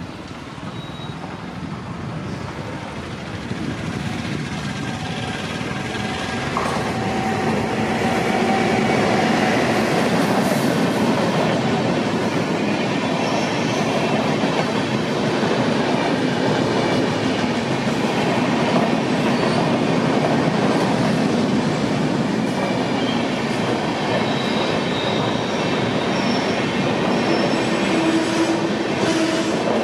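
An Indian Railways express hauled by a WAP-7 electric locomotive passes at speed, then its long rake of coaches runs by with a steady rumble of wheels on rail. It grows louder over the first several seconds as the train draws level, then holds.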